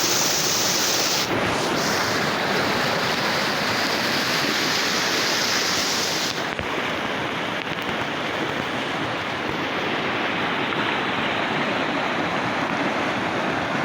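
Steady rushing of flowing water, an even roar with no separate splashes; the highest hiss thins out about six seconds in.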